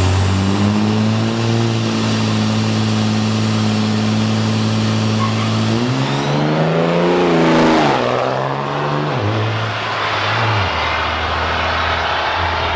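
Drag-racing vehicle engines running loud and steady with a high whine. About six seconds in, a vehicle passes close by, its pitch rising then falling as it goes, and the engine sound settles lower near the end.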